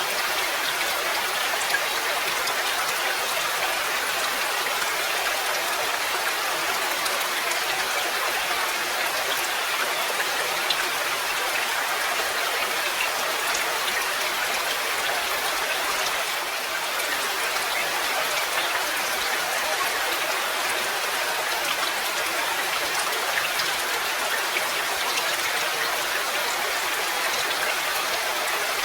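Steady rain: an even, unbroken hiss with small drop ticks scattered through it.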